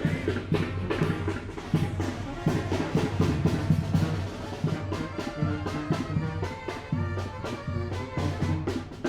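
Tamborazo band playing: brass instruments over a steady pounding beat of bass drum and cymbal strikes.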